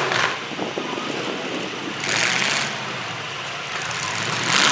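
Demolition derby trucks and SUVs running in the arena, a steady noisy engine din with a brief louder burst about two seconds in.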